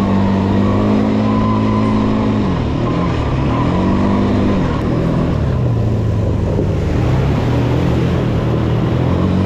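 Quad bike (ATV) engine running under the rider, its pitch falling and rising as the throttle is let off and opened again: it drops about two and a half seconds in, climbs and falls once more a second or two later, and rises again near the end.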